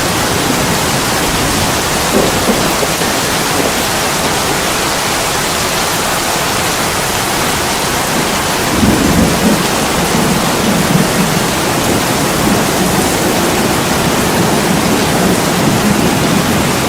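Heavy rain pouring steadily against a window, an even hiss, with a low rumble swelling about nine seconds in and a shorter one about two seconds in.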